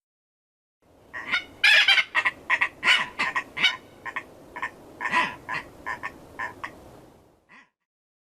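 Tropicbird calling: a rapid series of about fifteen short, harsh screeches starting about a second in, loudest at first and weakening toward the end.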